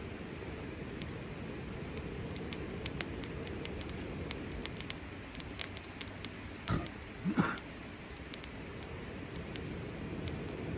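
Campfire crackling: scattered sharp pops and ticks over a steady low rush of the burning wood, with two louder short sounds about two-thirds of the way through.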